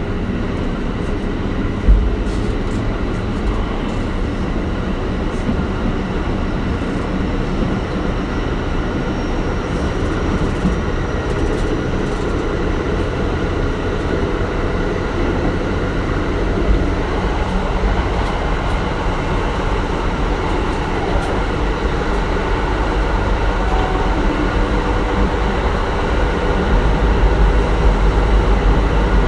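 Kintetsu 1420 series electric train with Mitsubishi GTO-VVVF traction running along the line, heard from on board: steady motor and wheel-on-rail noise with faint steady inverter tones. There is a sharp knock about two seconds in, a few light clicks, and the sound grows a little louder near the end.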